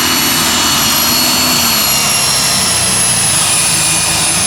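Light super stock pulling tractor's engine running with a loud, steady, multi-tone turbocharger whistle over a low rumble. The whistle sags slightly in pitch near the end.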